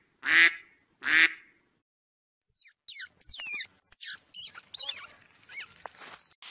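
Domestic goose giving two harsh, nasal calls in the first second and a half. After a short pause, a run of high, quickly gliding chirps and squeaks follows.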